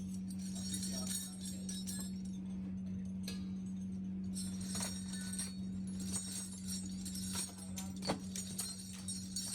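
Steady electrical or machine hum with light metallic clinking and jingling of small metal parts, busier in the second half.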